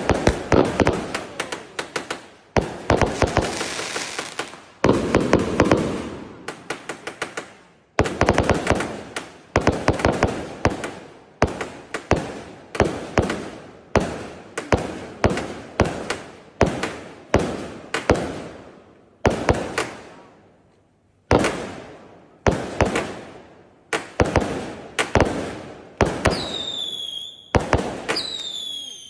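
Firecrackers going off: tight crackling runs of bangs at first, then separate loud bangs about one or two a second, each trailing off in an echo. Near the end, high whistles falling in pitch come just before the bangs.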